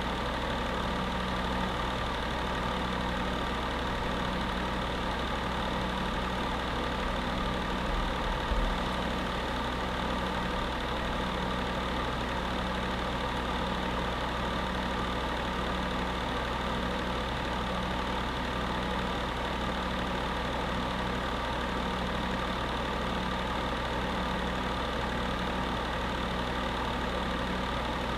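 Electric space heater running steadily: a constant fan-motor hum and whir with a slow, even throb in its low hum, and one brief low bump about eight seconds in.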